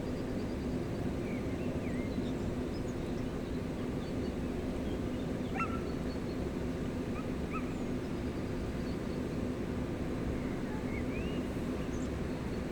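Steady rushing of the Gave de Pau, a Pyrenean river, with small birds giving short, scattered chirps and whistles over it.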